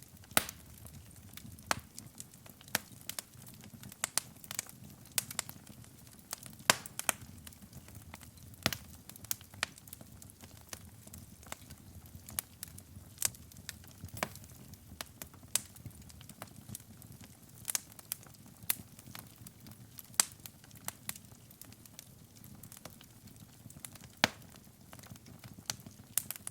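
Wood fire burning in a fireplace: irregular sharp crackles and pops, a few every second, over a low steady rumble of the flames.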